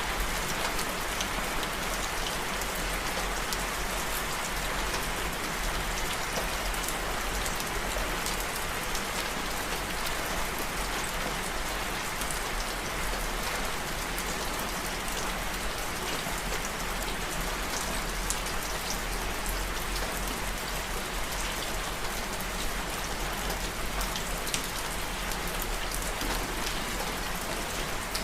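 Steady rain falling, a continuous hiss flecked with the sharp ticks of single drops striking a surface.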